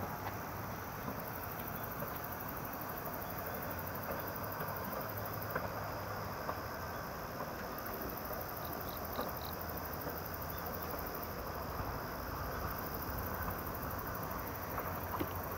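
Steady outdoor noise with the faint rumble of a distant approaching 413 series electric train, growing slightly louder near the end. Three short high chirps come about nine seconds in.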